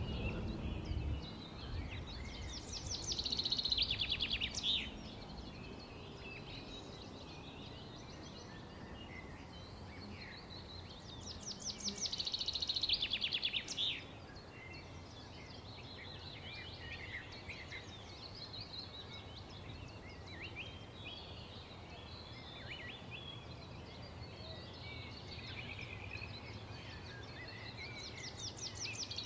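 Birds chirping, with a rapid high trill that comes three times, about every nine seconds, over a low steady background noise.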